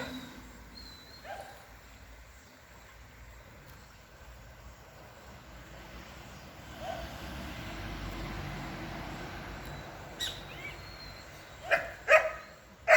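A dog barking: a few faint short yelps, then several loud barks close together near the end.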